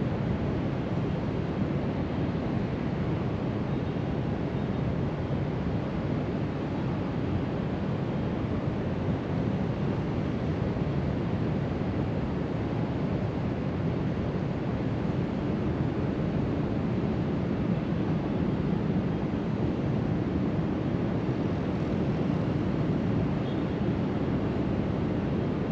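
Steady wash of ocean surf breaking along the shore below, blended with wind buffeting the microphone.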